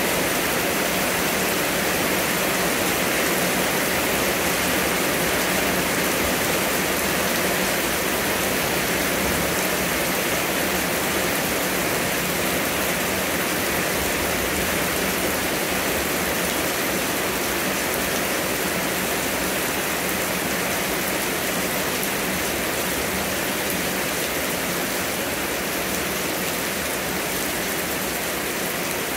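Heavy rain falling steadily onto banana leaves and dense foliage: a loud, even wash of noise with no single drops standing out.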